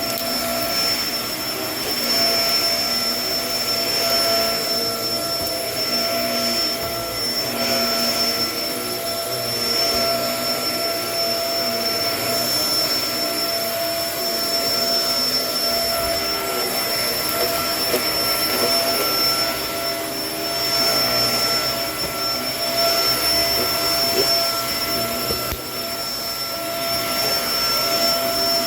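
Kenmore vacuum cleaner running steadily, a constant motor whine over the rush of air, its level rising and falling slightly.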